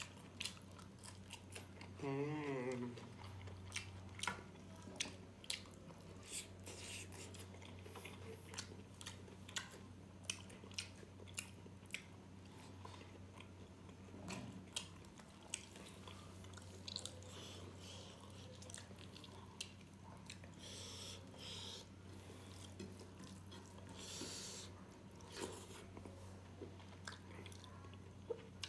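Close-miked chewing of rice and pork, with many sharp wet clicks and smacks of mouth and fingers, over a low steady hum. A short hummed vocal sound comes about two seconds in.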